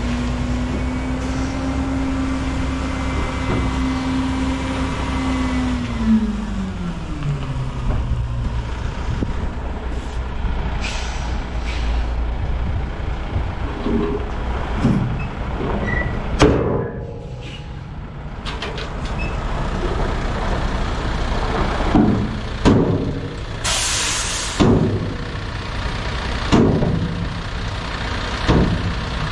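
Dump truck's diesel engine running, its pitch falling over a few seconds as the revs drop. Then come several air-brake hisses and releases, the loudest a sharp hiss near the end.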